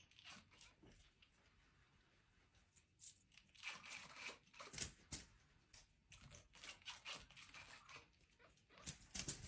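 Near silence, with a few faint clicks and rustles scattered through it and a small cluster near the end.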